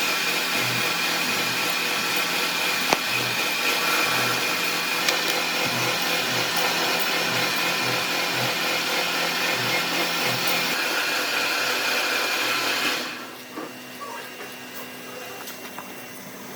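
An electric power tool running steadily on wood with a constant motor whine, cutting out about thirteen seconds in, after which only small knocks and clicks remain.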